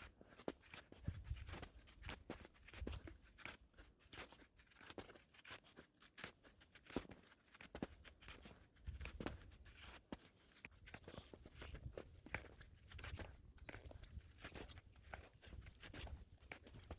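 Footsteps crunching in snow: a steady walking pace of soft, irregular crunches, quiet throughout.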